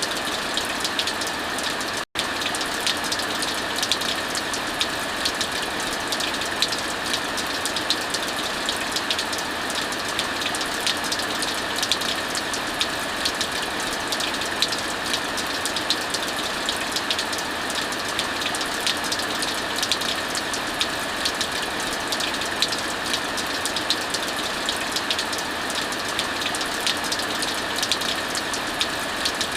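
Heavy rain falling steadily, mixed with a crackling wood fire whose many small sharp pops sit over the steady hiss of the rain. The sound cuts out for an instant about two seconds in.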